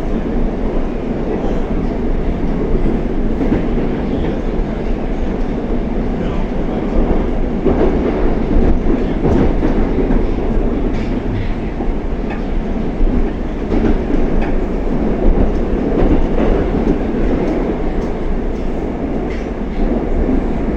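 Oka-type Moscow Metro train running, with a steady rumble and scattered clicks of the wheels over the rails.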